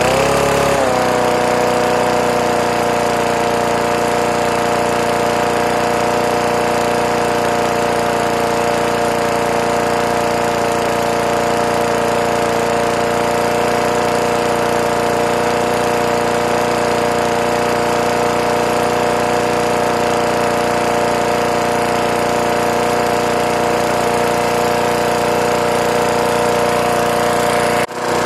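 3 hp Briggs & Stratton single-cylinder flathead lawn mower engine running at a steady speed, settling after a slight change in speed about a second in. The sound drops out briefly near the end.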